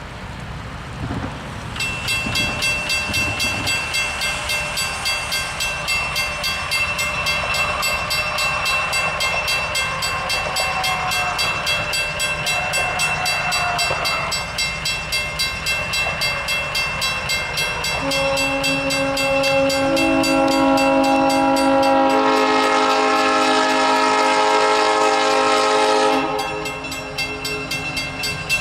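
A train's bell rings steadily, about twice a second. From about eighteen seconds in, a long chorded horn blast sounds over it, with a burst of hiss in the middle of the blast.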